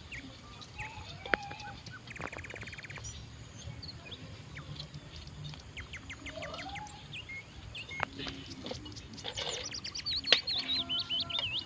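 Small birds chirping and calling, several overlapping, with a quick buzzy trill about two seconds in and a louder warbling song near the end. A few sharp clicks stand out.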